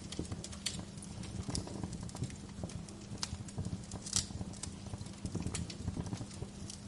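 Wood fire crackling in a fireplace: irregular sharp pops and snaps over a low rumbling hiss, with one louder pop about four seconds in.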